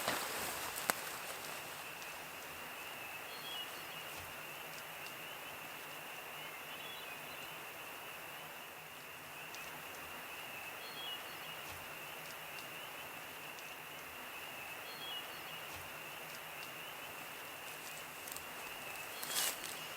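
Quiet outdoor evening ambience: a steady distant rush of river water with a thin, steady high-pitched hum over it, and a few faint bird chirps now and then.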